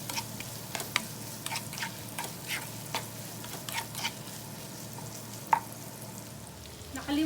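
Shredded chicken and hotdog sizzling in oil in a pan while a utensil stirs them, scraping and tapping against the pan at irregular intervals, with one sharper knock about five and a half seconds in.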